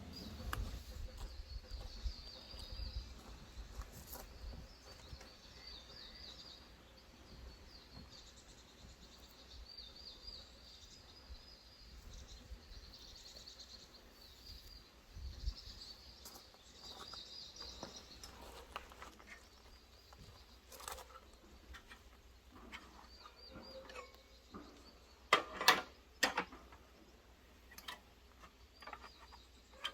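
Wild birds singing, repeated high chirping trills coming again and again. A few sharp clicks or knocks sound about three-quarters of the way through, louder than the birdsong.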